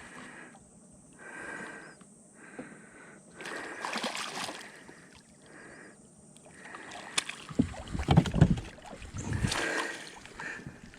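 Water splashing and sloshing as a hooked catfish thrashes at the surface while it is played in to the net. The splashing is louder and more broken in the second half.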